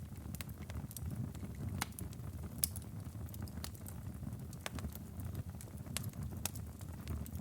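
Wood fire burning in a fireplace, crackling: irregular sharp pops and snaps over a steady low rumble, the loudest pop about two and a half seconds in.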